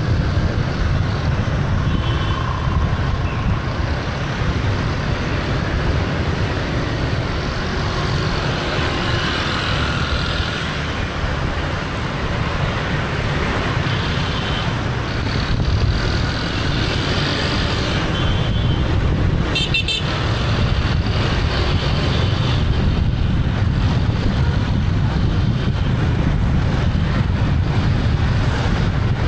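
Street traffic heard from a moving motorbike: a steady low rumble of engines and road noise, with several short horn toots from nearby motorbikes and cars.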